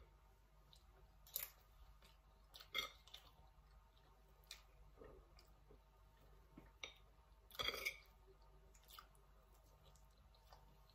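Faint chewing as someone eats a soft soufflé pancake: quiet mouth sounds and a few scattered soft clicks, with one slightly louder brief mouth sound a little under eight seconds in.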